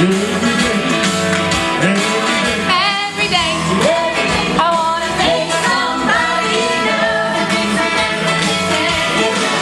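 Gospel singers performing a song with vocal vibrato over instrumental accompaniment.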